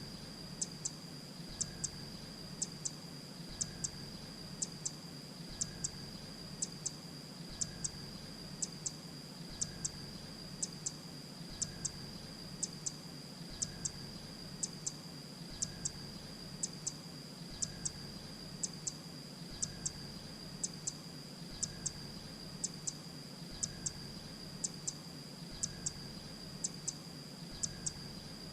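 Grey-breasted prinia calling: short, sharp, high double notes repeated evenly about once a second, over a steady high whine and a low hum.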